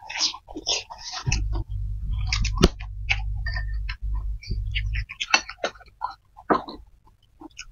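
Close-up eating sounds of spicy fried flat rice noodles being chewed: many short wet clicks and mouth smacks. A low rumble runs underneath from about a second in until about five seconds in.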